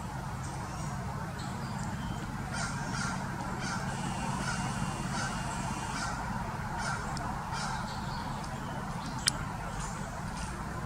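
Pileated woodpecker pecking and prying bark off a tree: scattered short taps, with one sharp, louder knock near the end. A run of short repeated bird calls sounds in the middle, over a steady low rumble.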